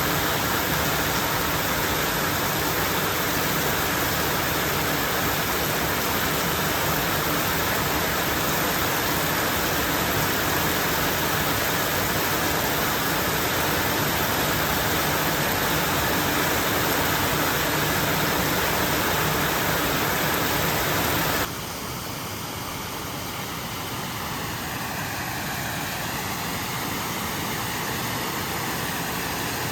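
Heavy rain falling steadily, a dense even hiss. About 21 seconds in it cuts abruptly to a slightly quieter, thinner rain sound.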